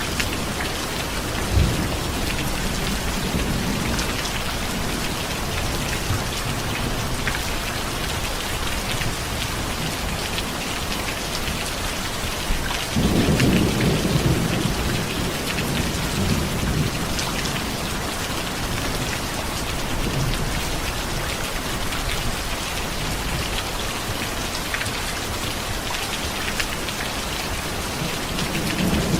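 Steady heavy rain with low rolls of thunder: a short rumble about two seconds in and a longer, louder roll about halfway through.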